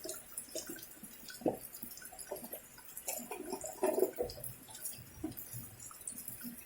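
Rainwater dripping and splashing in irregular small ticks over a light hiss.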